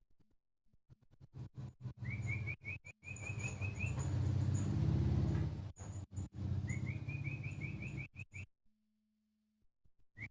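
Yellow-vented bulbul (trucuk) calling in two quick runs of short rising chirps, about five a second, over a loud low rumbling noise.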